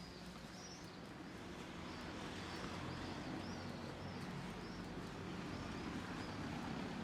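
Small birds chirping over and over, short high chirps, above a steady low hum and a haze of street traffic that grows slowly louder.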